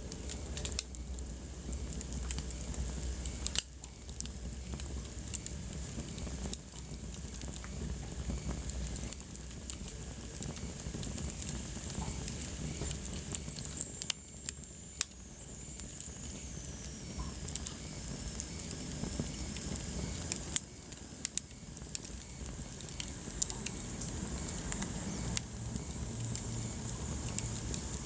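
Wood fire burning in a fireplace, crackling steadily with frequent sharp pops over a low rumble of the flames. A faint high whistle falls in pitch a little past the middle.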